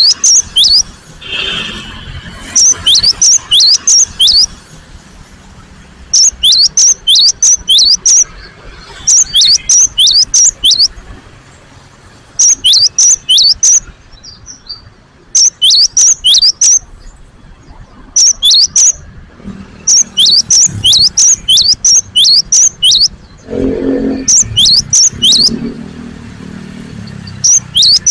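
Cinereous tit (gelatik batu) calling loudly in repeated bursts: quick runs of sharp, high chirps, each run lasting about two seconds, coming every few seconds. A low rumble joins near the end.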